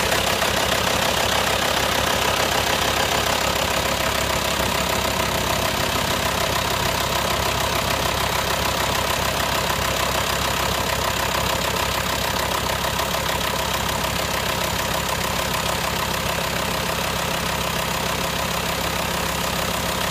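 2004 Volkswagen Touareg 2.5-litre five-cylinder diesel idling steadily, freshly started after an oil change. It grows gradually a little quieter as oil pressure comes up and the timing chain tensioner settles.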